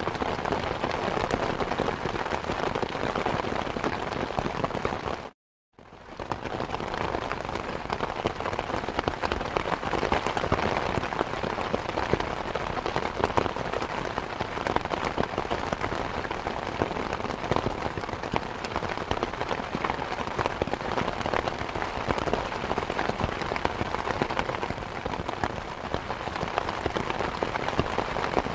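Steady rain falling, a dense, even patter of drops. About five seconds in it cuts out to silence for half a second, then fades back in.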